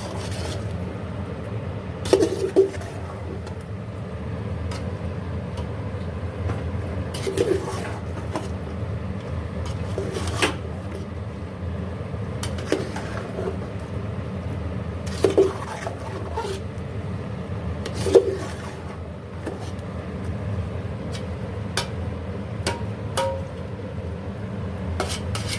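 Metal spoon stirring cauliflower in a cooking pot, knocking against the pot's side every few seconds with a short ringing clink, over a steady low rumble.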